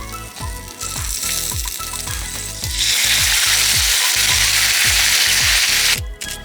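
Food sizzling hard in a hot frying pan, a loud steady hiss that swells about halfway through and cuts off abruptly near the end, over background music with a steady beat.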